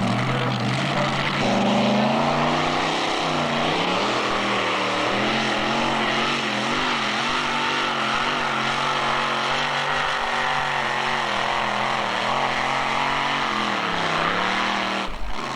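Two-wheel-drive pulling truck's engine running hard at high revs through a pull, its pitch wavering up and down as it loads, rising about two seconds in and sagging near the end.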